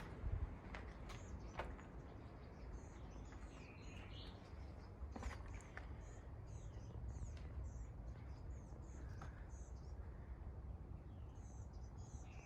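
Birds chirping and singing, many short high calls throughout. A few sharp clicks come in the first few seconds and again around five seconds in, over a steady low rumble.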